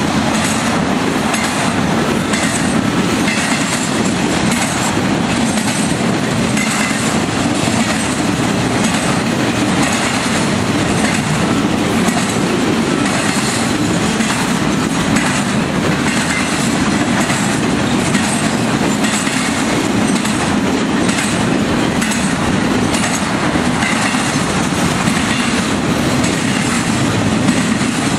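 Freight train cars rolling steadily past, their wheels clicking over rail joints in a regular rhythm under the steady rumble of the cars.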